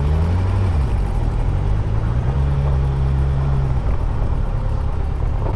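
Motorcycle engine running at road speed under wind noise, its pitch shifting slightly as the throttle changes.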